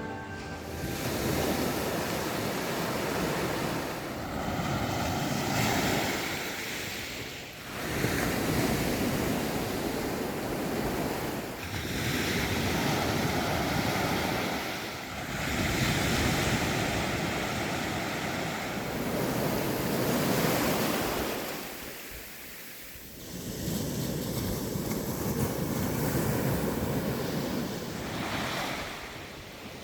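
Ocean waves breaking and washing up on the shore, the surf noise swelling and easing in long surges every four to five seconds, with some wind on the microphone.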